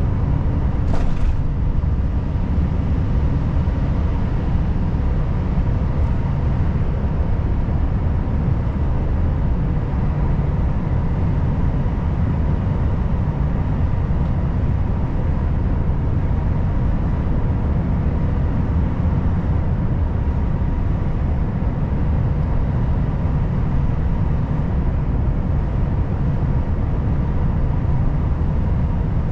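Volvo FH540 truck's engine and road noise, a steady, even hum. A brief click sounds about a second in.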